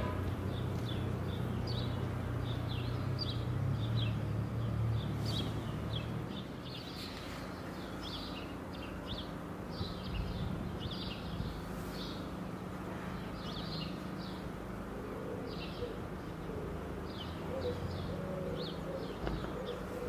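Small birds chirping in short, high, repeated notes throughout, over a low hum that fades about six seconds in.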